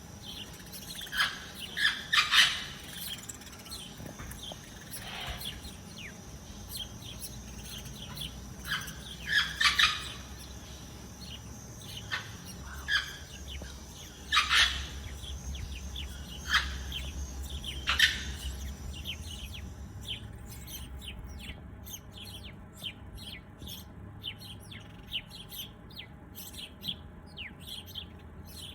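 Birds chirping, with short calls in scattered clusters over a steady high whine. About twenty seconds in, the whine and background hum stop and a quicker run of thin chirps follows.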